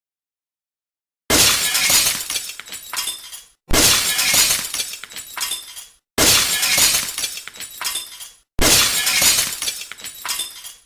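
A glass-shattering sound effect played four times in a row, each a sudden crash that dies away in scattered tinkling.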